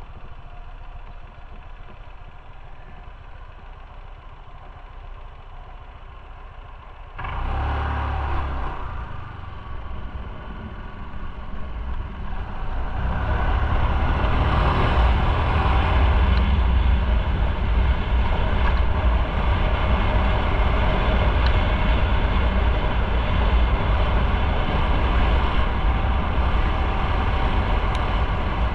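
Motorcycle engine idling, then about seven seconds in it picks up sharply as the bike pulls away, settling into steady running at road speed with wind on the microphone for the rest of the time.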